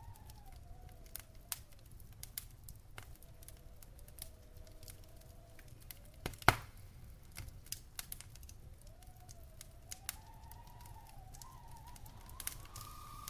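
Wood fire burning in a stone fireplace: irregular crackles and snaps over a low steady rumble, with one loud pop about halfway through. A faint wavering whistle drifts up and down in the background.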